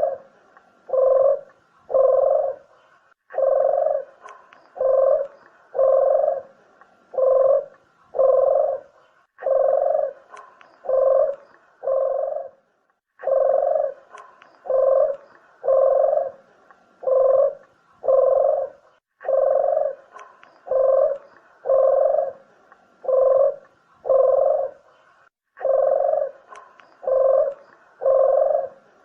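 Puter (Barbary) dove cooing: deep, even coos repeated in phrases of about five notes, each phrase followed by a short pause.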